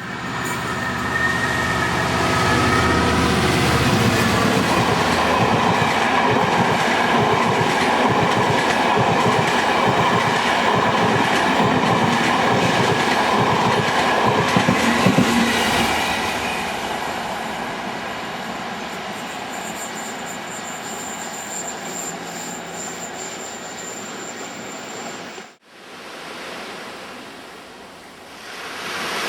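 A train running past on the track, wheels clattering rapidly over the rails with a low rumble at first; loudest through the middle and then easing off. An abrupt cut near the end switches to a quieter, steady noise.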